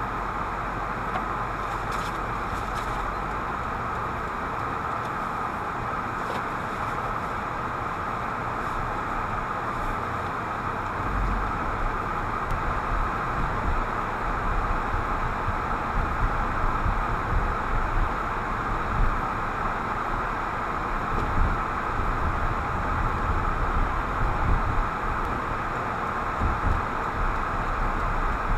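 Steady road noise inside a moving car, a constant hiss over a low rumble. From about eleven seconds in, low bumps from the road surface come more often.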